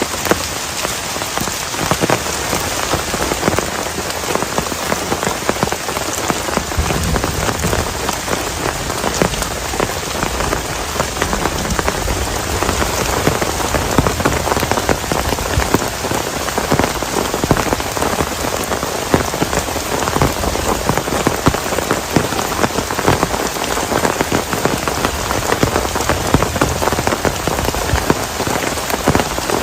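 Heavy rain falling steadily, a dense patter of drops striking a plastic tarp.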